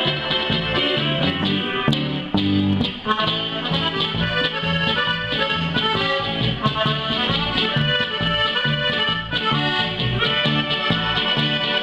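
Oberkrainer folk band playing live, the accordion leading the tune over a steady, even bass beat.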